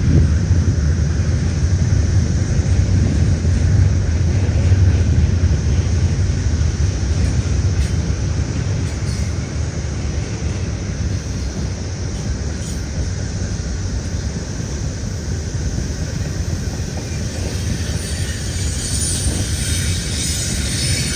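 BNSF intermodal freight train cars rolling past, a steady low rumble of wheels on the rails.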